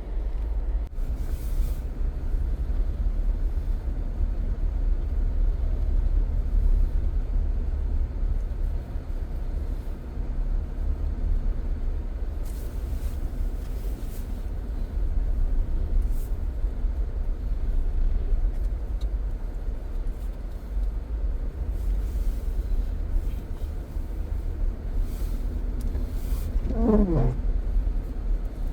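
Steady low road and engine rumble heard from inside a moving car's cabin. Near the end a brief tone slides downward in pitch.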